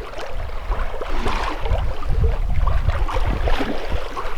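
Wind rumbling unevenly on the microphone, with water washing and splashing along the hull of a sailboat under way.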